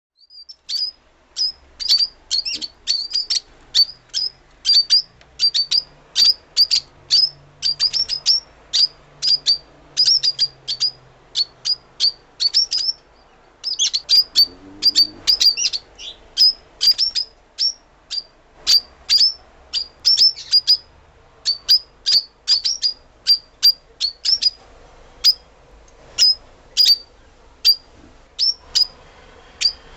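Lovebird giving rapid, repeated shrill chirps, about two a second, with a short pause about thirteen seconds in.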